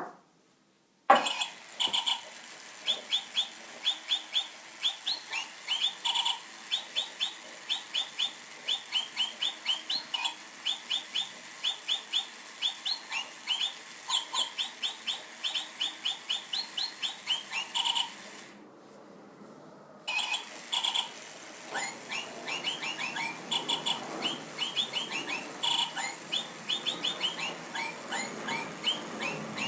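Jingle Bird toy playing a Christmas carol as a tune of electronic bird tweets, starting about a second in. The tune stops about 18 seconds in, and after a short pause a second carol begins. In the second half the low rumble of an airplane passing over grows underneath the tweets.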